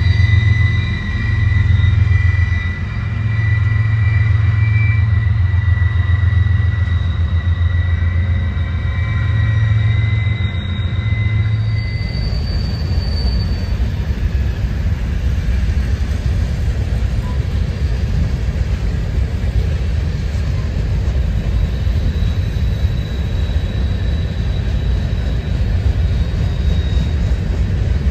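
Freight train rolling past, with high wheel squeal over a steady low drone for about the first twelve seconds. The sound then changes to a steady rumble of covered hoppers and a tank car going by, with a faint squeal again near the end.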